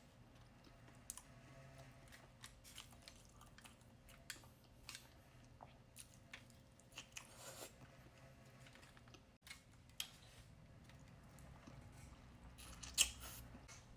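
Faint eating sounds from a seafood boil: chewing with scattered small cracks and clicks of crab and crawfish shells being broken, the loudest crack about a second before the end.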